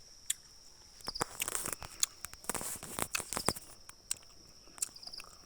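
Insects trilling, a high steady tone, under a run of sharp crackling and rustling clicks from about one to three and a half seconds in.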